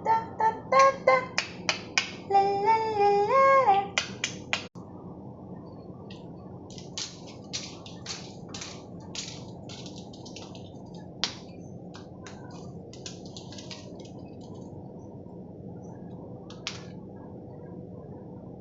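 Senegal parrot giving a few short whistled calls among quick sharp clicks for about four seconds, then scattered single clicks for the rest.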